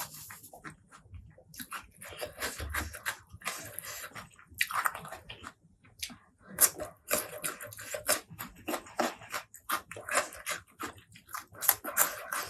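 Close-miked eating sounds: chewing and mouth smacking in quick, irregular bursts of clicks with short pauses between.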